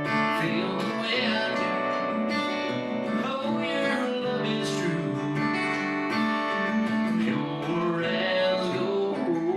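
Acoustic guitar strumming a 90s-style country song, played live.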